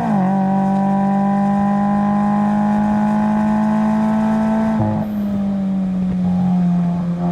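2020 Subaru BRZ's 2.0-litre flat-four engine under load at track speed. The revs drop sharply at a gear change just as it begins, then climb slowly for about five seconds. Another quick dip near five seconds in is followed by steady, slightly lower revs.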